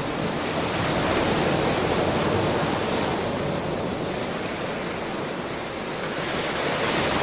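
Ocean surf: waves washing in as a steady rush of water, easing a little past the middle and building again near the end.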